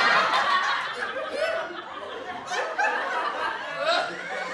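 A group of people laughing, heaviest and most crowded at first, then thinning after about a second and a half into a few separate chuckles and laughs.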